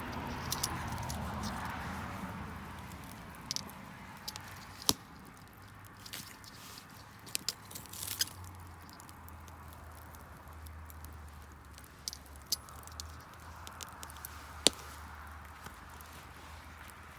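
Wood bonfire crackling, with irregular sharp pops, two louder ones about five seconds in and near the end, over a faint low hum.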